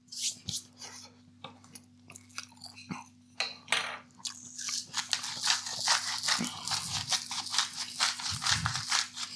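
Close-up chewing of a mouthful of breaded cod, the crumb coating crunching: a few scattered crunches at first, then steady, dense crunching from about halfway.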